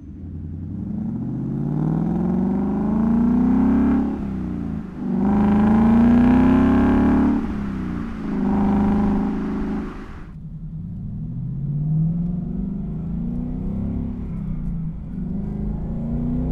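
Ford Mustang GT's 5.0 V8 through an XForce Varex 3-inch cat-back exhaust accelerating hard. Revs climb, break about four seconds in, then climb again and hold. About ten seconds in it backs off to a quieter, lower-revving run.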